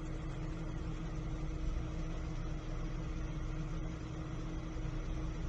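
Steady car driving noise picked up by a dash cam microphone: a low rumble with a faint steady hum over it.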